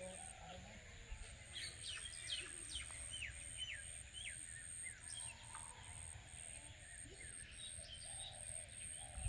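Small birds chirping in short, quick notes, most of them in a burst over the first few seconds. Behind them runs a high, evenly pulsing buzz, a few pulses a second, over a low rumble.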